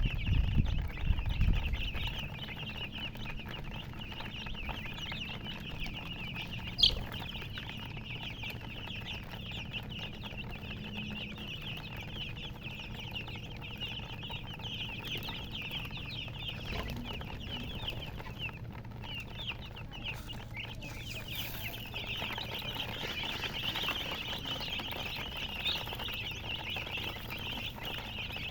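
Baby chicks cheeping continuously, many short high peeps overlapping. A few low thumps in the first two seconds and one sharp click about seven seconds in.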